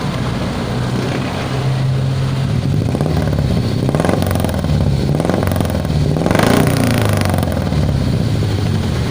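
Carbureted Suzuki Carry Futura engine running through a new 4-3-1 header and HKS muffler exhaust. It idles, then is blipped up and down several times, the highest rev about six and a half seconds in, while the exhaust's sound is being tried out.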